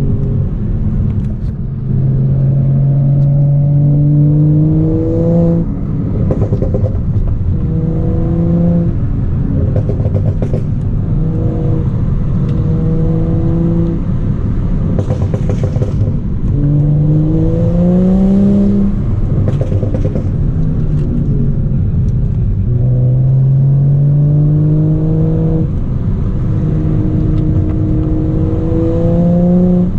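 Straight-piped BMW 335i's N55 turbocharged inline-six exhaust under repeated throttle. Its note rises in pitch about six times, easing back between pulls.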